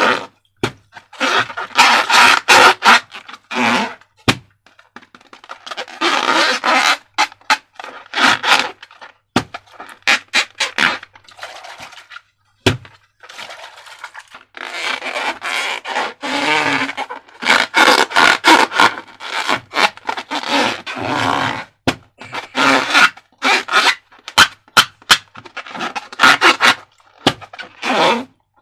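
Slime and rubber balloons being handled by hand: irregular sticky squishing and scraping in bursts of a second or two, broken by many sharp clicks.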